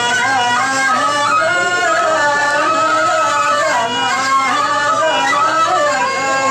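Hadhrami dan singing: a voice winding through an ornamented melody over a steady held drone note.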